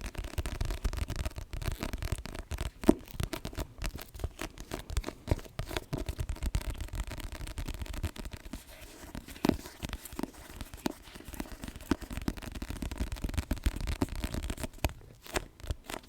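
Close-miked ASMR trigger sounds: a dense run of soft, irregular clicks and crackles, with a sharper tap about three seconds in.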